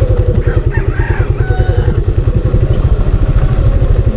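Suzuki Gixxer's single-cylinder engine running at low revs, a steady rapid pulsing with no revving. A rooster crows briefly about half a second in.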